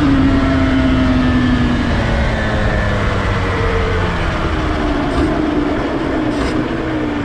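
Honda NSR250R's two-stroke V-twin engine running under a heavy rushing noise, its note sliding slowly down in pitch as it comes off the throttle after a rise in revs.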